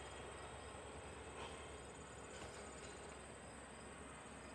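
Faint, steady high-pitched chirring of crickets, with a faint low hum underneath.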